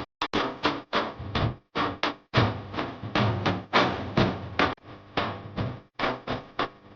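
A loose run of sharp drum hits, several a second and unevenly spaced, each with a short ringing tail, with brief drops to silence between some strikes.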